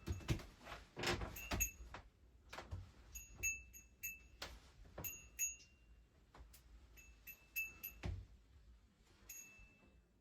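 Small metal objects clinking: an irregular series of light taps and knocks, many with a short high ring after them, amid soft handling sounds.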